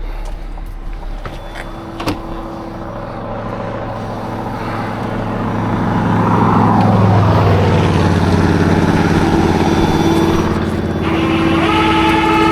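Truck engine running steadily, with a few sharp clicks early on. A falling sweep of noise comes about six seconds in, after which the sound stays louder.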